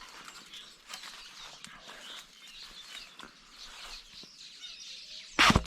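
Small birds chirping faintly in the background. Near the end comes one loud, short puff of air, a blowgun dart being shot.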